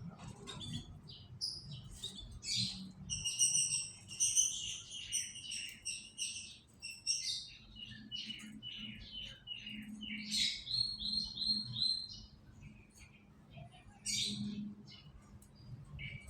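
Domestic canary singing: quick runs of high chirps and trills, with a stretch of evenly repeated notes in the middle.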